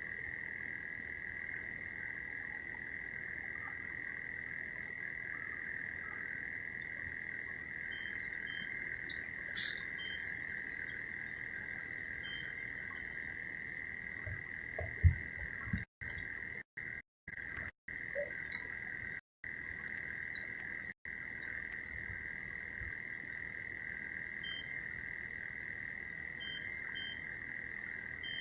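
Steady, unbroken chorus of calling frogs and insects, a constant high drone, with a second, higher-pitched chorus joining about eight seconds in. There is a single low knock about fifteen seconds in, and the sound cuts out briefly several times soon after.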